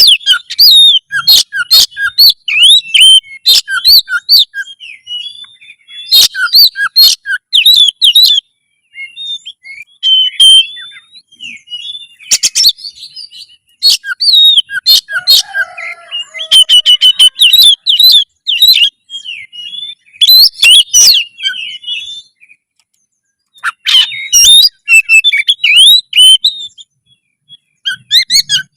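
Oriental magpie-robin (kacer) singing loudly in full song: rapid bursts of varied whistles, sharp chirps and chattering notes, broken by short pauses.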